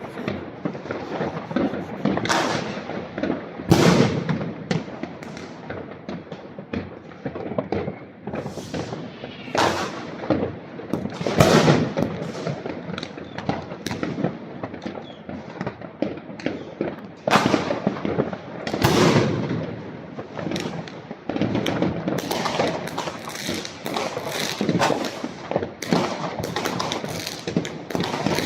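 Fireworks going off non-stop: a dense crackle of small bangs with louder booms every few seconds.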